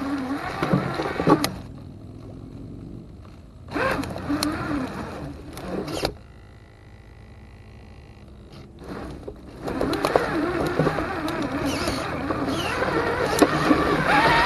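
Electric motor and gear drivetrain of an Axial SCX10 II RC crawler whining in bursts as the throttle is applied and let off, with quieter gaps of a few seconds between. The whine runs steadily again in the last few seconds and rises in pitch near the end.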